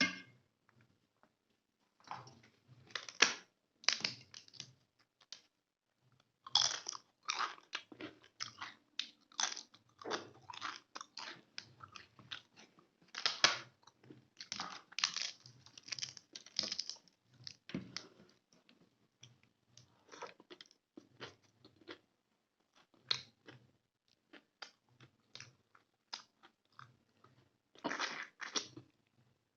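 A person chewing and biting a mouthful of chicken gravy and plain rice, in quick runs of wet, smacking and crunching mouth sounds with a few brief pauses.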